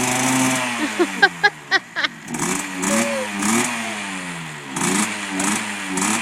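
Mini KTM dirt bike's small engine, held steady at first, then a few quick sharp blips, then revving up and falling back over and over.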